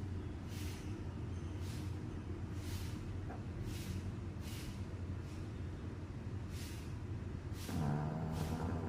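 Dog snoring while asleep: a breathy rasp about once a second over a steady low hum, with one longer, buzzing snore near the end.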